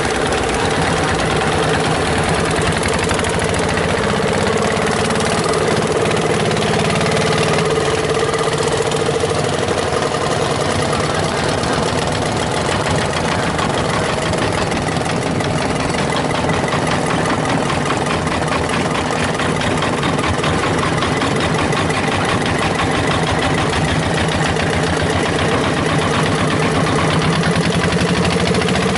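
Longtail boat's engine running steadily: a loud, even drone with a fast, regular firing beat that holds for the whole stretch.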